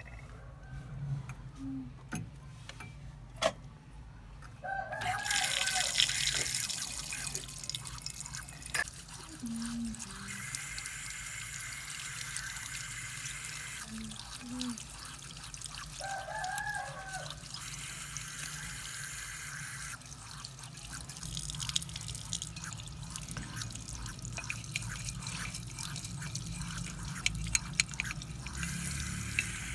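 Water running and dripping, starting about five seconds in and going on unevenly. A rooster crows twice, about five seconds in and again near the middle.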